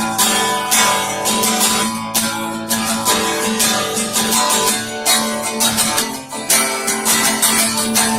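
Acoustic guitar strummed in a steady rhythm of chords, an instrumental passage with no singing.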